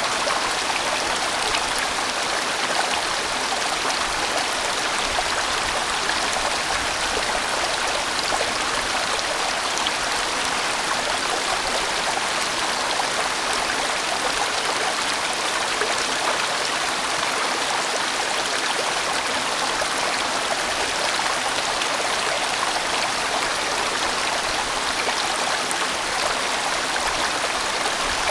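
A sizeable mountain stream flowing over rocks, a steady rushing of water with no change.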